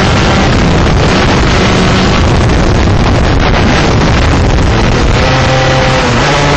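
Onboard sound of a 125cc two-stroke shifter kart engine buried under heavy wind buffeting on the microphone. About five seconds in, the engine note turns lower and steadier.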